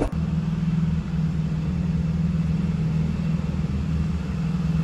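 Mercedes SUV's engine idling, a steady low hum.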